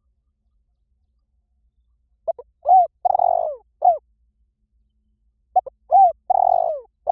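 Spotted dove cooing: two call phrases about three seconds apart, the first starting about two seconds in. Each phrase is a couple of short quick notes, a longer rolling coo and a closing coo. It is a recorded call used as a lure to draw in doves.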